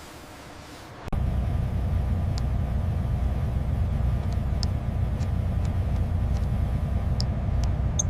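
A vehicle's low engine rumble starts abruptly about a second in and runs steadily, with a few faint high ticks over it.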